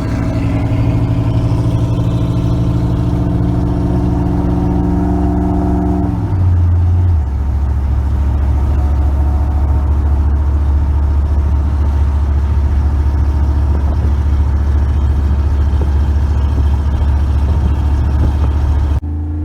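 Truck engine heard from inside the cab, running hard and steady under acceleration. About six seconds in its note drops to a lower, deeper drone that then holds steady, and the sound cuts off abruptly near the end.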